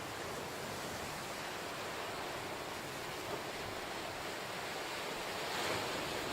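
Ocean surf: a steady wash of waves on the shore, with one wave swelling louder and breaking near the end.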